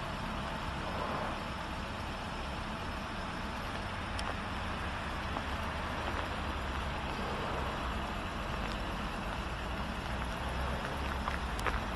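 Audi 2.0 TDI four-cylinder turbodiesel running steadily with a low rumble, with a few faint ticks.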